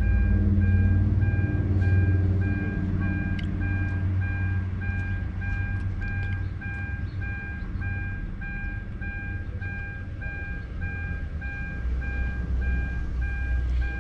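Electronic beeper sounding a steady, even beep about three times a second, over a low rumble.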